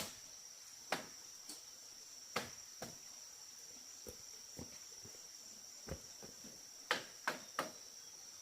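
Sharp, irregular knocks, a few spaced out and then three in quick succession near the end, over a steady high-pitched insect drone.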